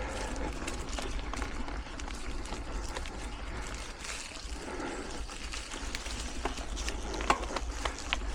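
Mountain bike riding over hard, dry singletrack, heard from a helmet-mounted camera: constant tyre and rolling noise with many small clicks and rattles, over a low rumble of wind on the microphone.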